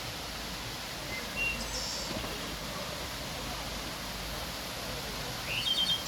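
Short bird calls twice, a brief high call about a second and a half in and a quick chattering call near the end, over a steady outdoor hiss.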